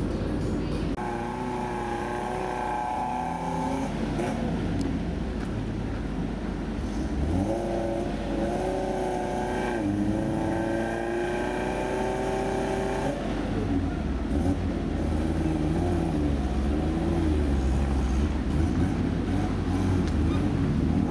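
Off-road 4x4 SUV engines revving, held at high revs for a few seconds at a time twice, then rising and falling at lower revs.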